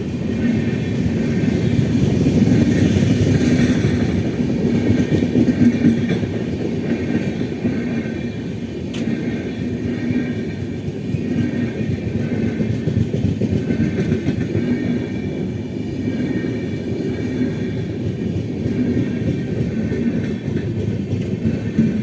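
Passenger coaches of an express train rolling past as it arrives at the station: a steady rumble of wheels on the rails, loudest in the first few seconds and easing a little after that.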